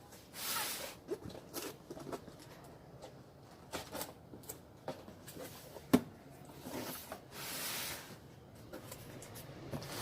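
Handling noises: irregular bursts of rustling with scattered clicks, and one sharp click about six seconds in.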